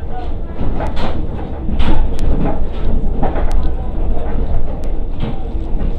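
Passenger train heard from inside the car: a steady low rumble with scattered sharp clicks and rattles.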